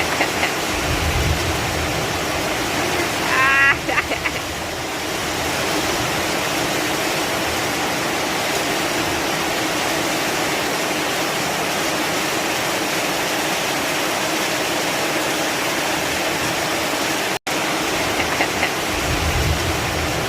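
Heavy rain pouring down steadily, a dense even hiss. A brief high, rising sound cuts through about three and a half seconds in, and the sound drops out for an instant near the end.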